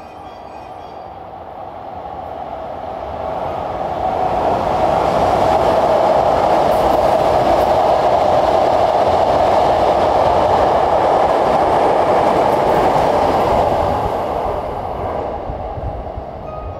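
Hankyu electric commuter train running through the station: its wheel and running noise swells over about four seconds, holds loud and steady for roughly ten, then fades away.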